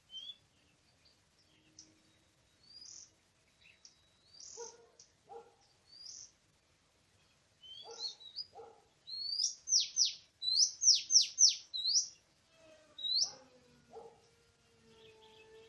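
Oriental magpie-robin calling: scattered short high chirps, then a fast run of about eight loud, sharply falling whistled notes in the middle, followed by a few more chirps.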